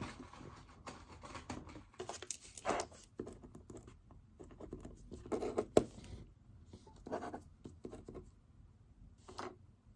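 Pen writing on paper: irregular short scratchy strokes with brief pauses, and a sharp tap a little over halfway through.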